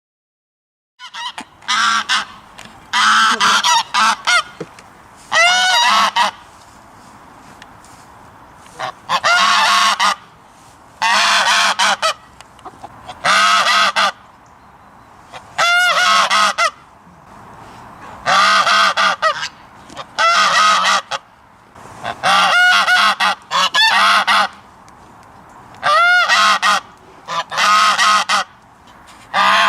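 Geese honking: loud, harsh pitched calls in clusters about a second long, coming every two seconds or so, beginning about a second in.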